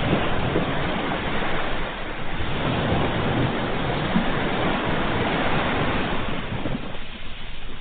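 Ocean surf: waves rushing and washing onto a shore in a continuous roar of water, easing briefly near the end before the next wave.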